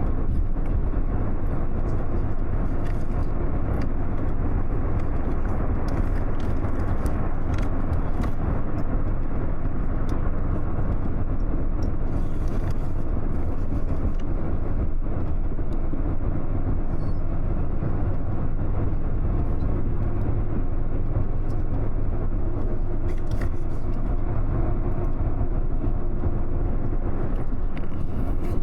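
Double-decker bus running steadily through a road tunnel, heard inside the cabin from the upper deck: an even low engine hum and tyre and road noise, echoing in the tunnel.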